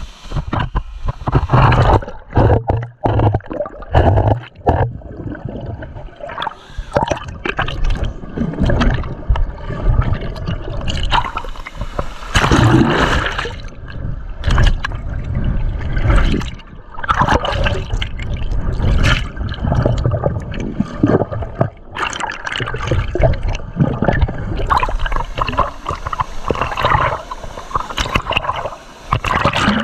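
Water splashing and gurgling close to the microphone in a strong waterfall-pool current, in irregular surges as a swimmer moves through it.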